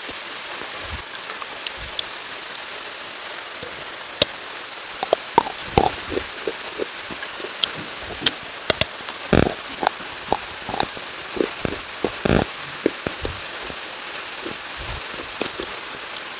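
Rain falling: a steady hiss with irregular louder drops striking a nearby surface, growing busier partway through.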